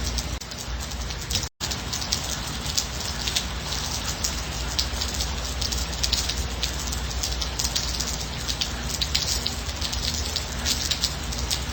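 Steady gentle rain, with many individual drops striking close by in quick, irregular succession over an even wash of rainfall. The sound cuts out for an instant about a second and a half in, then resumes.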